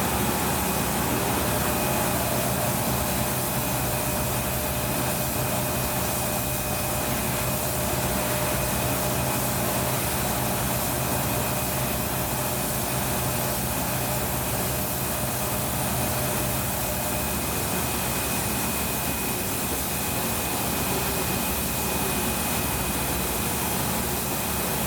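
Steady mechanical hiss with a low, even hum, unbroken and unchanging.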